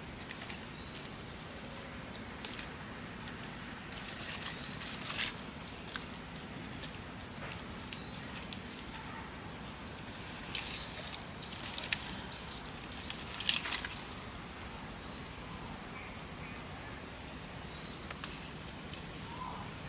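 Outdoor countryside ambience with short, high bird chirps now and then, and scattered sharp clicks and knocks, the loudest about thirteen seconds in.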